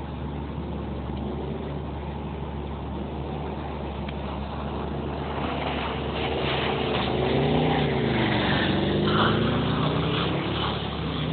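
Audi S4 B6's 4.2-litre V8 revving up and down as the car drifts in circles on snow. It grows louder about halfway through, with the revs rising and falling, over a steady low hum.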